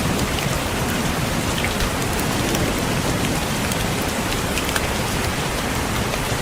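Steady rain on a window, with scattered raindrops tapping the glass.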